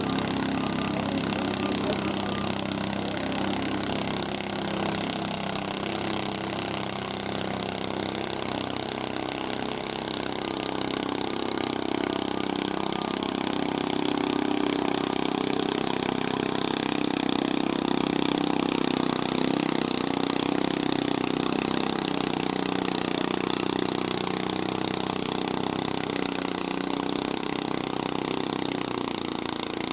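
Garden tractor engine running steadily, getting a little louder for several seconds midway.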